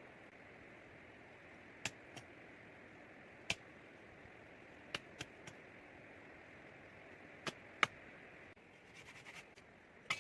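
Sharp, short knocks or taps, about nine of them at irregular intervals, over a steady hiss, with a brief flurry of faint ticks near the end.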